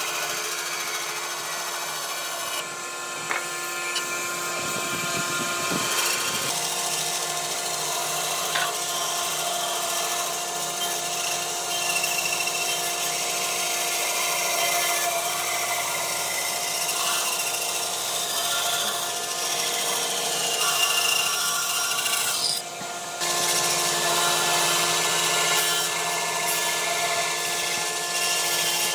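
A power tool working wood, with a steady motor whine over the rasp of the tool on the wood. The sound breaks off briefly about three quarters of the way through, then carries on.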